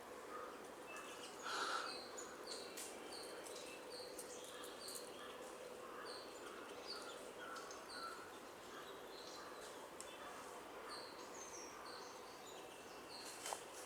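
Wild birds calling: a run of short, high chirps about twice a second, with a louder, lower call about a second and a half in.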